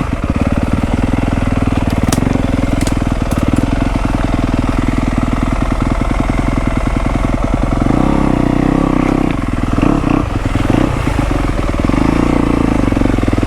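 Dirt bike engine running loud at low revs, its firing pulses steady, with the revs rising and falling about eight seconds in and a few brief throttle dips shortly after.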